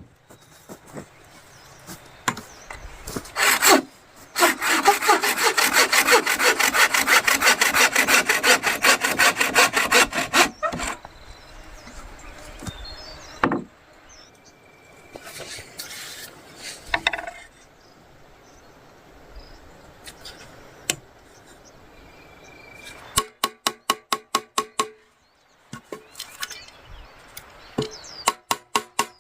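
Hand saw cutting through wood: a steady run of quick back-and-forth strokes for about six seconds, then scattered knocks, and two short bursts of quick, evenly spaced strokes near the end.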